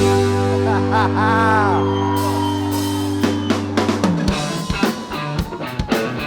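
Live rock band holding a sustained final chord over a steady bass note, with a bending high line over it early on. About four seconds in the chord cuts off and the drum kit plays on alone with quick snare and cymbal hits.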